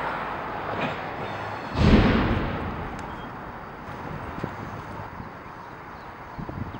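Wind buffeting the microphone, with one gust about two seconds in that fades slowly, over a faint steady outdoor background.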